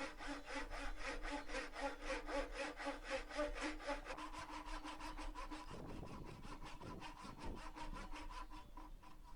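Hand saw cutting a slot lengthwise down the centre of an oak hammer handle for the wedge, in quick, even back-and-forth strokes that grow fainter about halfway through.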